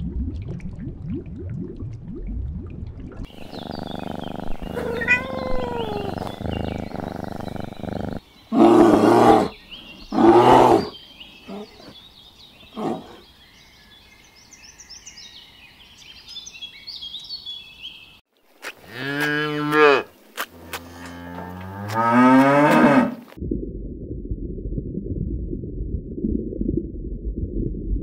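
A string of animal calls: two loud short calls about nine and ten seconds in, faint high chirping, then two long drawn-out calls that slide in pitch, followed by a low steady rumble.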